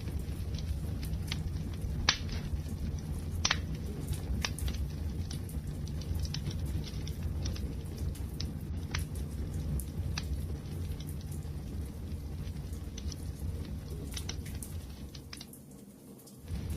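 Wood fire burning, a steady low rumble with sharp crackles and pops at irregular intervals. Near the end the sound sinks away for about a second and then returns.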